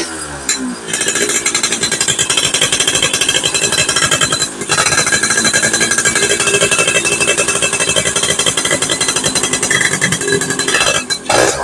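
Yamaha F1ZR two-stroke moped engine running with a rapid pulsing beat, dropping out for a moment about four and a half seconds in. It is still running rough after a standard coil was fitted, a fault the mechanic suspects lies in the pulser.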